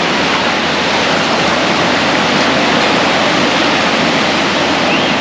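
Loud, steady rush of water noise with no breaks, as of surf or waves.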